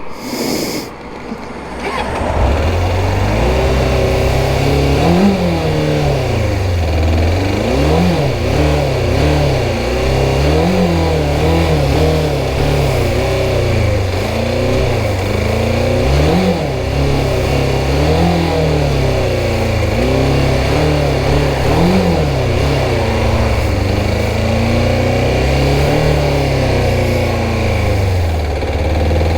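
Suzuki GSX600F inline-four engine running while riding, its revs climbing and dropping again and again, a rise every two to three seconds. The bike is spluttering and losing power, which the rider fears is serious engine trouble.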